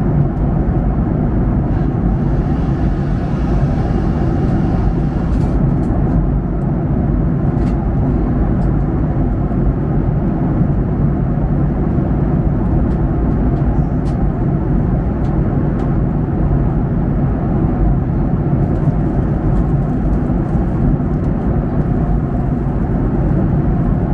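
Steady cabin noise inside a Japan Airlines Boeing 737-800 in flight: a constant low rumble of the engines and airflow.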